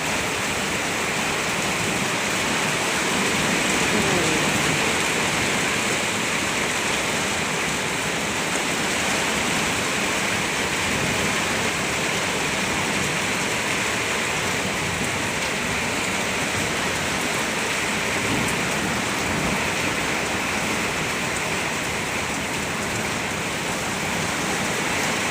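Light rain falling steadily, an even hiss of drops.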